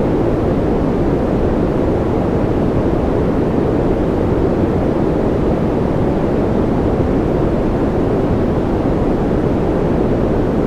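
Steady synthetic noise of the kind sold as white noise for sleep, deep and dull rather than hissy, unchanging throughout.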